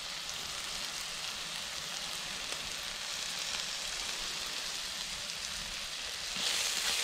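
Diced lamb, onion and mushrooms sizzling in hot oil in a non-stick GSI Pinnacle frying pan, a steady hiss. It gets louder about six seconds in as a wooden spoon stirs the food around the pan.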